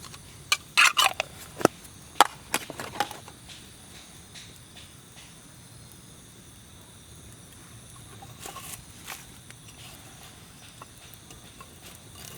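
Dry wood cracking and snapping: a quick run of sharp cracks in the first three seconds, then a few lighter ones later. A steady high-pitched whine runs underneath.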